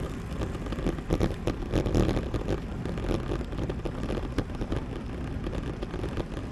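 Wind rushing over the microphone of a moving road bike, with tyre noise from the road and a few short knocks scattered through.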